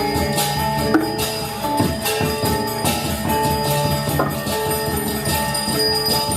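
Balinese gamelan music: bronze metallophones and gongs ringing in shifting held tones, with a clash of cymbals about once a second.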